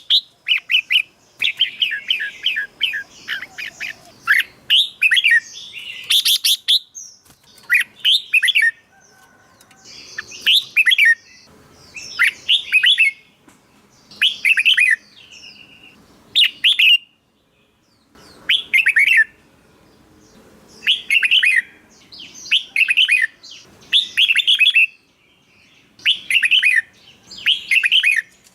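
Red-whiskered bulbul singing. The first few seconds are continuous chattering, followed by short, bright warbled phrases about a second long, repeated roughly every two seconds.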